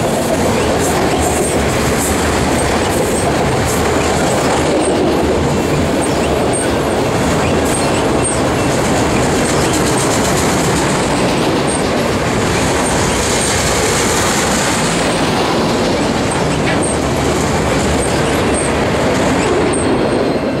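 Empty autorack freight cars rolling past at speed: steel wheels running on the rail in a loud, steady noise, with a faint high squeal recurring every second or so. The noise falls away at the very end as the last car goes by.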